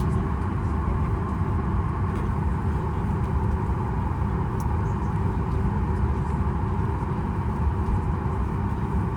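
Steady low rumble and hiss of a Boeing 737 MAX 8 heard from inside the cabin while it is on the ground before departure.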